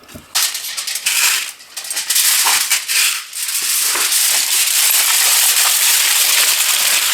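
Aluminium foil being crinkled and pressed into shape by hand: a dense, continuous crackling rustle.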